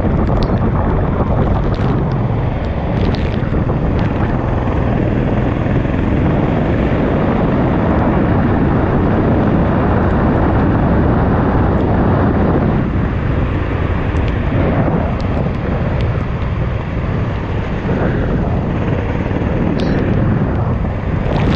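Go-kart running, heard from on board, with heavy wind buffeting on the microphone; the noise eases a little about two-thirds of the way through.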